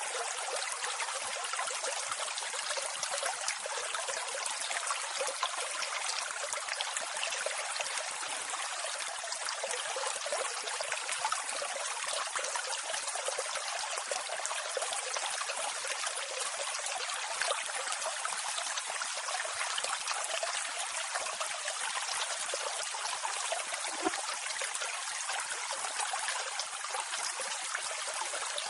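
Steady rush of water from a waterfall, a continuous splashing hiss with little low rumble.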